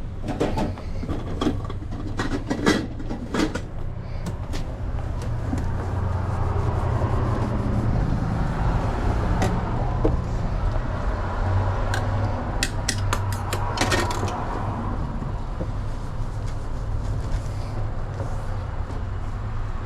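Clicks, knocks and clatters of food-truck kitchen work, such as lids, containers and utensils being handled, in a cluster near the start and again past the middle, over a steady low hum.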